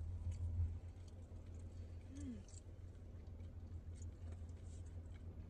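Faint chewing and crunching of fried chicken, scattered soft crackles over a steady low hum. There is a brief hummed 'mm' about two seconds in.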